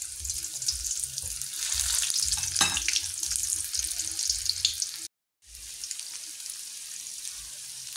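Salt-and-chili tofu blocks shallow-frying in oil in a wok: a steady sizzle full of small crackles, kept over a gentle heat so the tofu crisps. The sound drops out for an instant a little after five seconds in, then carries on a little softer.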